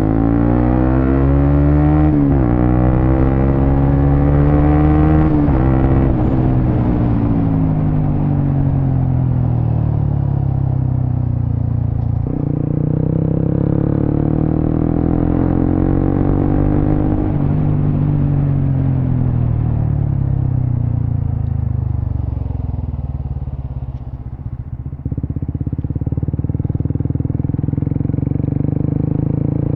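Suzuki GSX-S150's single-cylinder engine running through a Quinze big-volume aftermarket exhaust while ridden. The revs climb and then drop sharply at gear changes about 2 and 6 seconds in, rise and fall again through the middle, and briefly ease off about three-quarters of the way through.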